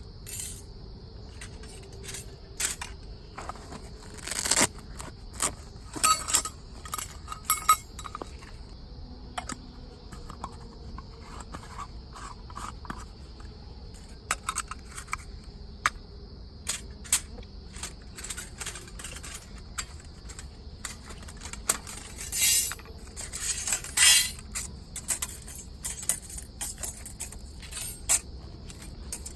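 Irregular clinks, taps and scrapes of metal camping cookware and utensils, with louder clusters of knocks about a quarter of the way in and again near the end, over a faint steady high hiss.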